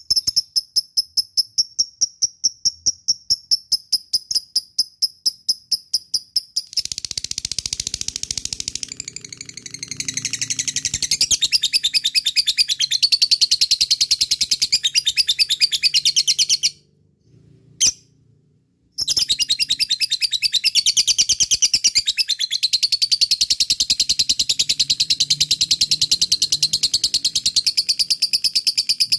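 Lovebird giving its long, fast chattering call (ngekek). It starts as an even run of high repeated notes, about seven a second, then becomes a denser chatter. The chatter stops for about two seconds past the middle and then starts again.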